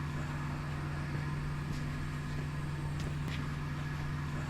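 Steady low mechanical hum from a running motor or fan, with a few faint light clicks.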